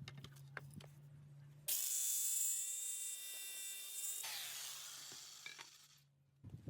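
A power tool working wood runs at a steady pitch for about two and a half seconds, starting about halfway through the first two seconds, with a strong hiss. Its tone then cuts off and the hiss fades away over the next couple of seconds.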